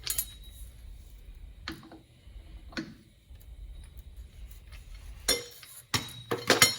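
Sharp metal clinks of tools and hardware on a truck's front wheel spindle nut and lock washer while the nut is tightened for the washer to fit: a few separate clinks, then a quick cluster of louder ones near the end.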